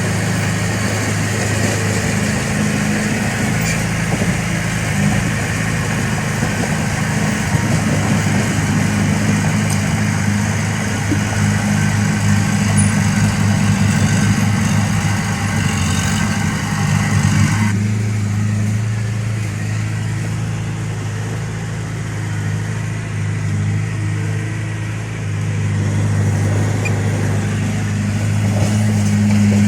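Heavy-equipment diesel engine running steadily with a strong low drone. About two thirds of the way in, the higher clatter above it cuts off suddenly, leaving the low engine note.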